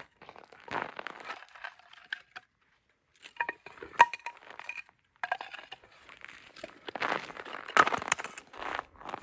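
Rustling and crinkling of items being handled, with scattered clinks and one sharp ringing clink about four seconds in.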